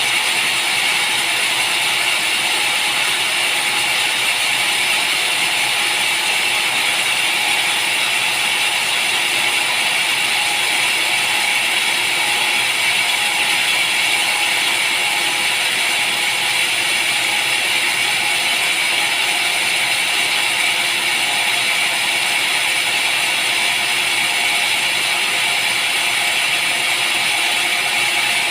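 Sawmill machinery running steadily, a dense, even mechanical noise that does not change.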